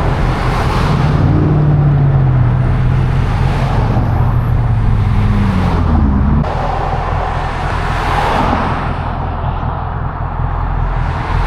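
Car engine running with road noise, its pitch gliding up and down, with a sudden change in the sound about six seconds in.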